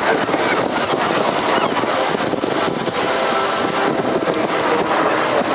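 Westland Lynx AH7 helicopter flying overhead, its rotors and twin turbine engines making a loud, steady noise, with wind buffeting the microphone.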